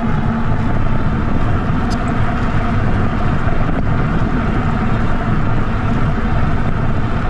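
Steady hum and rush of an e-bike climbing a steep hill, its electric motor working under load with wind noise over the microphone.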